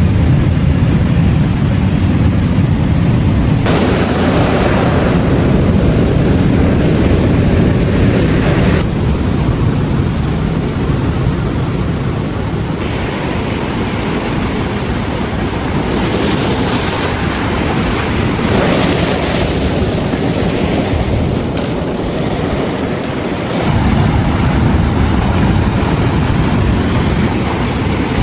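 Ocean waves breaking on a beach, with wind buffeting the microphone as a low rumble. The sound shifts abruptly several times.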